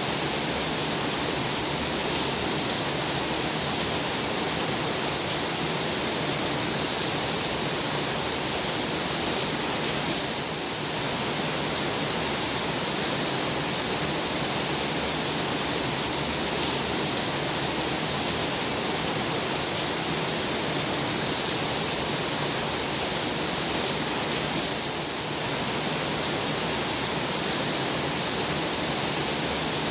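Heavy rain pouring down in a steady, even hiss, easing very slightly for a moment twice.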